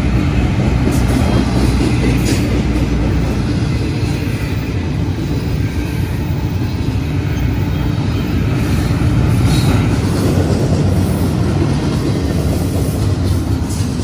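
Freight train rolling past close by at speed: a steady, loud rumble of cars on the rails, with faint clicks from the wheels.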